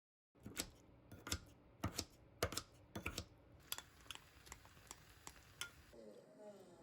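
Typing on a computer keyboard: irregular key clicks, a few louder strokes among lighter ones. Near the end the clicks stop and a faint sound with a wavering pitch takes over.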